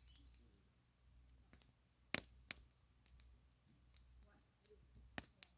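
Campfire crackling: faint, with scattered sharp pops, two loud ones a little after two seconds in and two more near the end.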